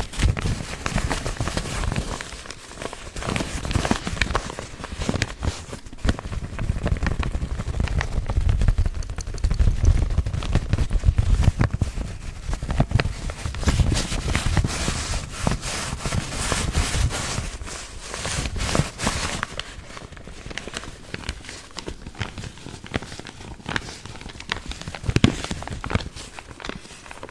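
Paper coffee filter bags crinkled and handled close to the microphone: a dense, continuous run of crackles and taps, somewhat quieter near the end.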